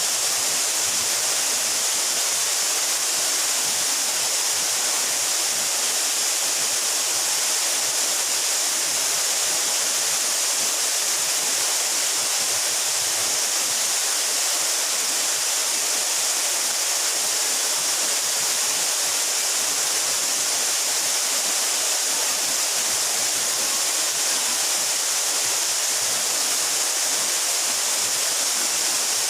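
Mountain waterfall about 12 metres high, water falling and splashing without a break: a steady, even rushing hiss with little deep rumble.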